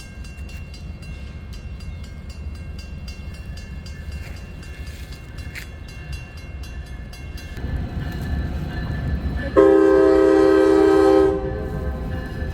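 Norfolk Southern freight train approaching, its rumble growing louder, with a grade-crossing warning bell ringing steadily. About two-thirds of the way in, the locomotive sounds one long, loud blast on its air horn, lasting under two seconds.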